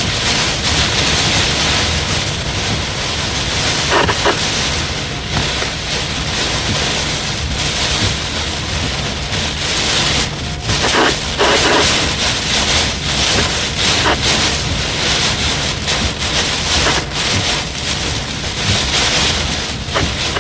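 Thunderstorm downpour: heavy rain and wind making a loud, steady rush of noise.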